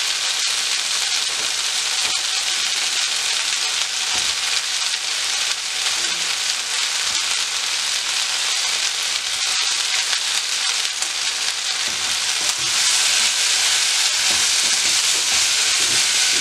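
Onion, bell pepper and ketchup devil mix with fried chicken pieces sizzling steadily in a non-stick frying pan. Near the end, a slotted spatula stirs through it and the sizzle grows a little louder.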